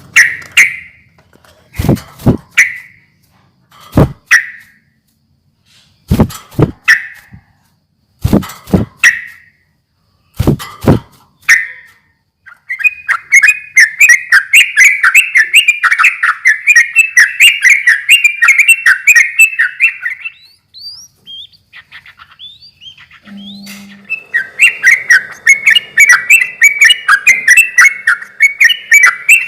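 Yellow-vented bulbul (trucukan) calling: short separate calls a second or two apart with sharp clicks, then a long run of rapid bubbling chatter. The chatter breaks off about two-thirds of the way through and starts again for the last few seconds.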